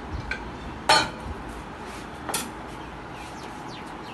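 Kitchen utensils and dishware knocked and set down on a counter: a few sharp clinks, the loudest about a second in and another a little past the middle.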